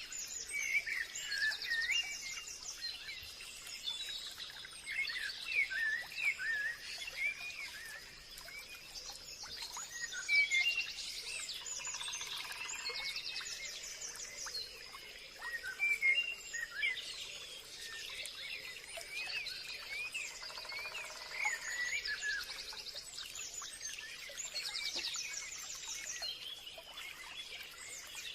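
Forest bird chorus: several birds chirping and trilling in quick, overlapping calls, over a steady high-pitched tone.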